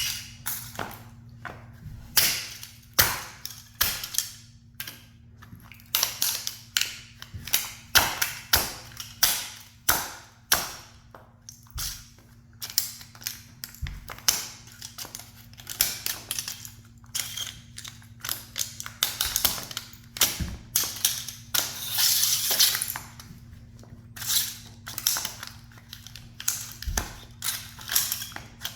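A toy sports car being crushed under a high heel: irregular sharp cracks and crunches as it breaks, with a longer stretch of grinding crunch about two-thirds of the way through. A steady low hum sits underneath.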